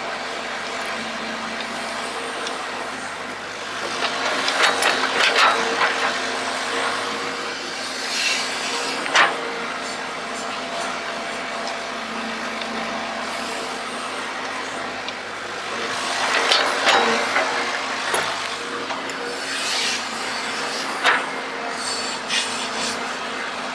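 Excavator running with a steady hum while its bucket digs. Two stretches of scraping and rattling come about four seconds in and again about sixteen seconds in, with sharp knocks around nine and twenty-one seconds.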